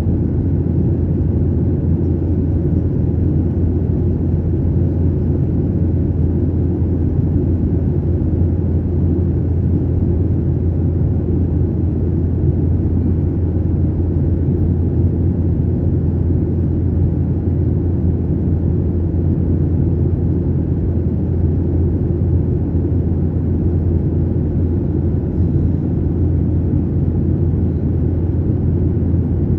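Steady low rumble of an airliner's engines and airflow heard inside the passenger cabin, unchanging throughout.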